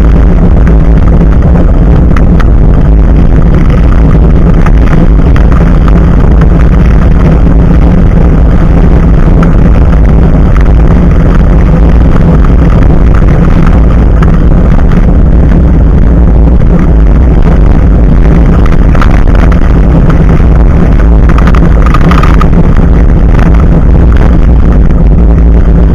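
Steady, very loud rumble of wind and road noise on a bike ride, picked up by a Nikkei Extreme X6 action camera's built-in microphone mounted low above the front tyre.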